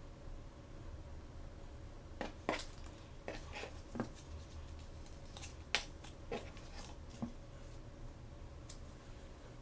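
Hands handling plastic toy packaging: a run of about a dozen sharp clicks and crackles starting about two seconds in, the loudest near the middle, before things go quiet again.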